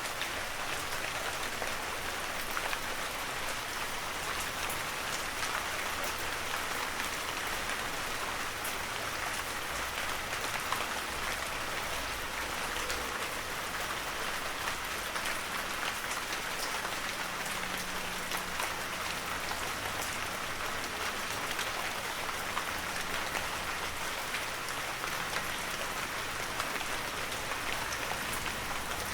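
Heavy rain falling steadily, a dense even hiss with many fine drop ticks.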